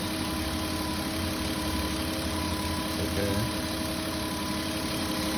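An engine idling with a steady, unchanging hum.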